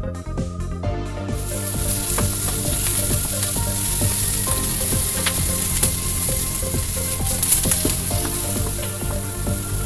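Pieces of chicken breast sizzling as they are stir-fried in a frying pan, a wooden spatula scraping and tapping against the pan. The sizzling starts about a second in and keeps up steadily.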